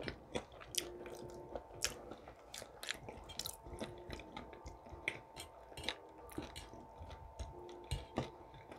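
A person chewing breakfast food close to the microphone: quick, irregular wet mouth clicks and smacks.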